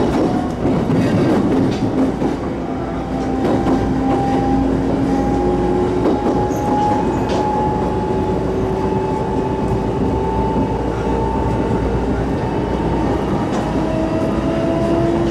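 Inside the passenger car of an electric train running along the line: wheels rumble and clack over rail joints, and a steady motor whine rises slowly in pitch as the train picks up speed.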